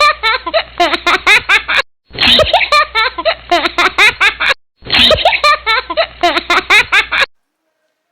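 Laughter sound effect: a clip of rapid, high-pitched giggling laughter played three times in a row. Each time it cuts off abruptly.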